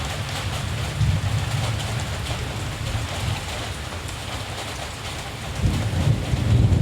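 Steady rain falling, with a low rumble of distant thunder underneath that swells about a second in and builds louder near the end.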